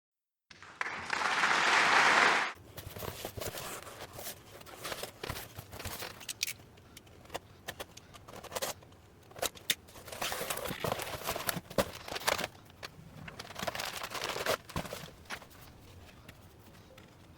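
Hands working on a laptop: scattered clicks, taps and rustling, with a loud two-second hiss of noise near the start.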